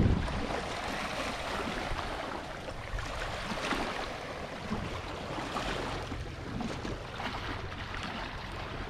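Seaside ambience: steady wash of sea water with wind rumbling on the microphone, loudest in a gust at the very start.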